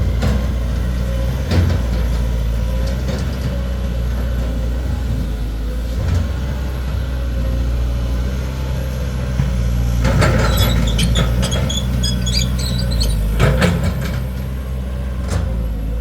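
Caterpillar 320D2 GC excavator's four-cylinder ACERT diesel engine running steadily, with a few short knocks and, from about 10 to 13 seconds in, a patch of faint high ticking.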